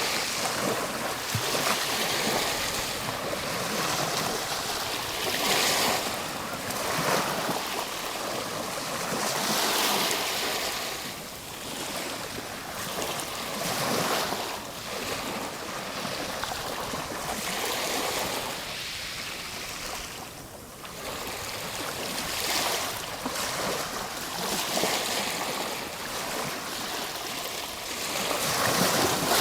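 Ocean waves breaking and washing on a shore, a steady rushing surf that swells and ebbs every few seconds, with one brief lull about two-thirds of the way through.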